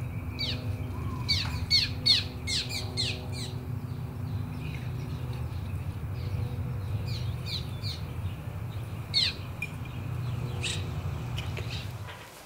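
Small birds chirping in quick runs of short, falling notes, thickest in the first few seconds and again later, over a steady low rumble.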